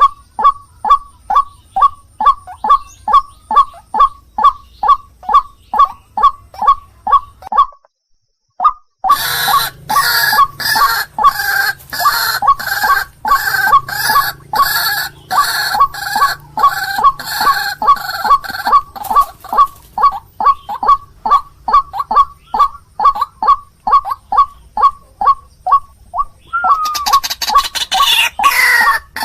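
White-breasted waterhen (ruak-ruak) calling: a short croaking note repeated about three times a second. After a brief break about eight seconds in, the calls come back noisier, with several voices overlapping.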